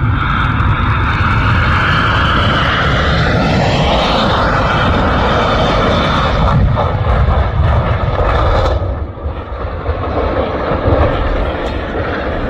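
Airplane engine noise, loud and steady, with a rising whine about three to four seconds in; the higher part of the sound cuts off suddenly about nine seconds in.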